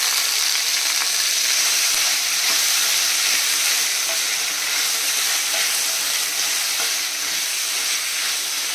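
Chopped tomatoes, onion, garlic, ginger and dry red chillies sizzling steadily in hot oil in a stainless steel kadai while being stirred with a wooden spatula.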